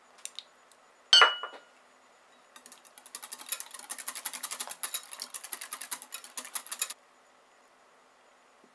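A utensil strikes a mixing bowl once with a short ringing clink, then about four seconds of rapid whisking: a fast run of clicks of the whisk against the bowl as the custard-cream mixture is beaten.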